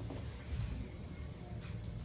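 Quiet room tone with a low rumble, and a few faint clicks near the end.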